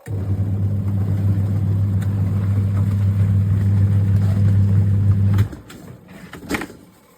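Twin tub washing machine's wash motor running with a steady low electric hum. It starts abruptly and cuts off after about five seconds, followed by a few short swishes and clicks.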